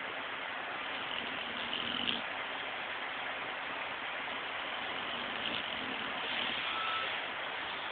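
A sleeping dog snoring: two slow snoring breaths, a couple of seconds in and again near the end, only a little above a steady hiss of background noise.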